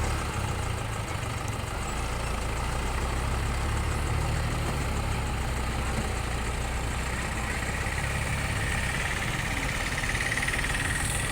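Tractor diesel engine running steadily, with a higher-pitched hum joining in about seven seconds in.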